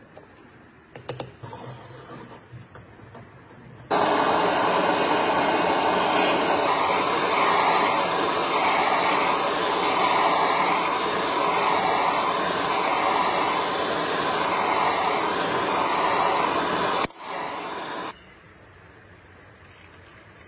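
A few faint clicks, then a loud, steady rushing noise that switches on suddenly about four seconds in. It cuts out briefly near the end, comes back for about a second, and switches off.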